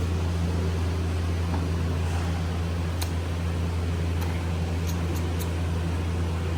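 Steady low mechanical hum over an even hiss, unchanging throughout, with a few faint clicks.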